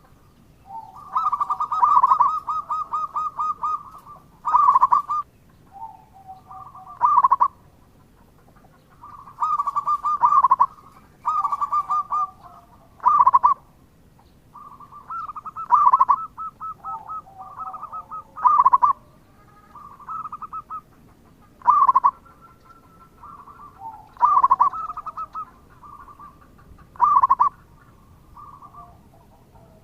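Zebra dove (perkutut) cooing: repeated phrases of a fast rolling trill around a loud peak note, one phrase every two to three seconds.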